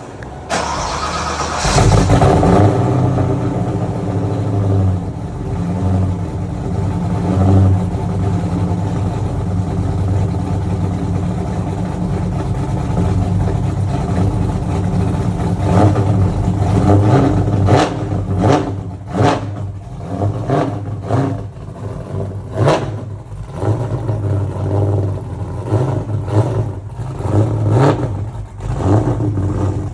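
Cold start of a Fox-body Mustang's supercharged 363 cubic-inch stroker V8. It catches just under two seconds in and settles into a steady, loud idle, then the throttle is blipped repeatedly in the second half.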